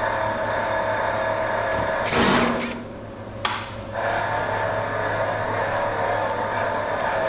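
A handheld power tool runs in two short bursts, about two seconds in and again about three and a half seconds in, over a steady background hum with several held tones.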